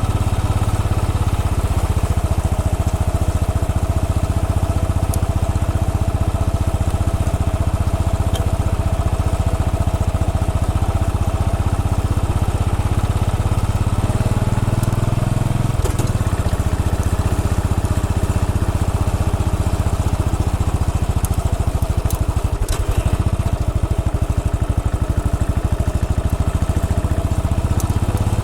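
Royal Enfield Bullet 500's single-cylinder engine running steadily as the motorcycle is ridden, its note shifting about halfway through.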